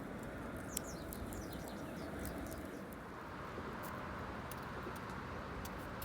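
Wood campfire crackling, with scattered sharp pops over a steady low rush. A few short, high bird chirps are heard about one to two seconds in.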